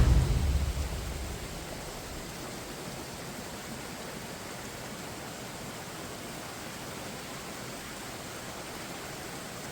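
Steady rushing of a large waterfall: an even, pitchless roar of falling water. Music fades out in the first second.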